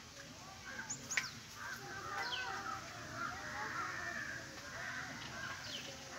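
Birds calling, with several quick, steeply falling high chirps and a busier wavering chatter of calls underneath.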